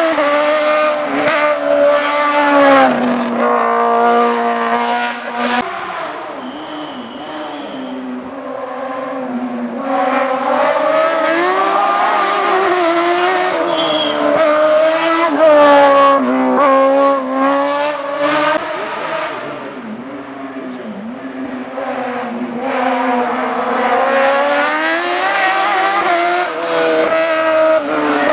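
Hillclimb race car engines revving hard, the pitch climbing and dropping again and again through gear changes. The sound fades twice and builds again as cars come and go.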